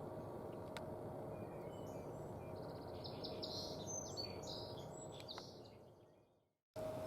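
A songbird singing a short run of high chirping notes, starting about two and a half seconds in and lasting about three seconds, over faint steady outdoor background noise. The sound fades out shortly before the end, then cuts to a similar quiet stretch.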